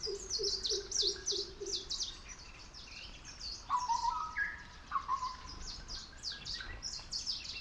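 Several birds calling together: rapid high chirps throughout, a low note repeated about six times in the first two seconds, and a whistled phrase of stepped notes around the middle.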